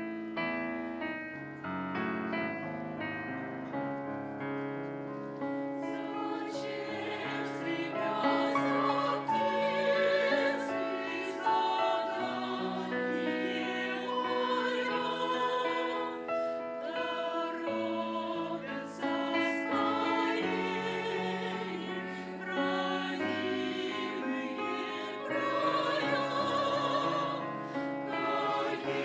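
Choir singing a Christian song with piano accompaniment. The piano plays alone for the first several seconds before the choir comes in.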